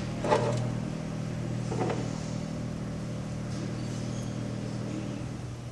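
Steady low machine hum, with two short knocks of metal winch parts being handled, about a third of a second and about two seconds in.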